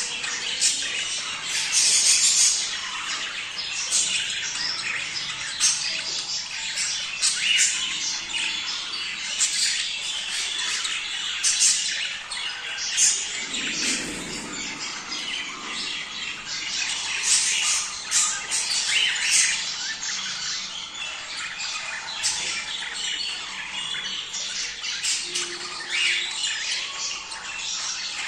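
A flock of budgerigars chattering continuously, a dense warbling of chirps with frequent sharp squawks standing out.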